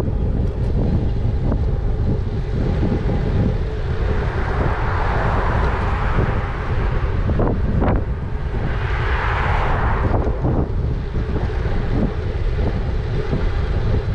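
Wind buffeting the microphone while riding an e-bike, a steady low rumble, with two swells of rushing noise about four and nine seconds in.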